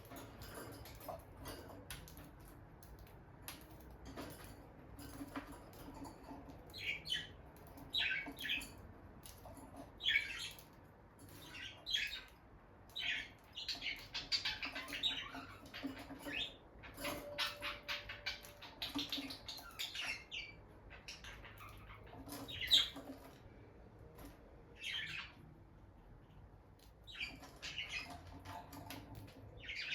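Peach-faced lovebirds chirping in short, high calls that come in clusters, busiest through the middle, with scattered clicks and rustles of the birds moving about.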